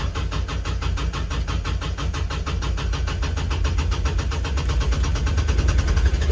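Kubota RTV900's three-cylinder diesel being cranked by the starter in deep cold: a rapid, even chugging of compression strokes, about ten a second, without the engine catching. It is a failed cold start, which the owner puts down to summer diesel fuel left in the tank and gelling or freezing at -8°F.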